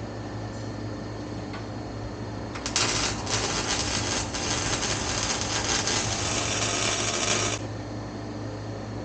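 MIG welder laying a bead on exhaust pipe: a loud crackling hiss that starts a little under three seconds in and cuts off sharply about five seconds later, over a steady shop hum.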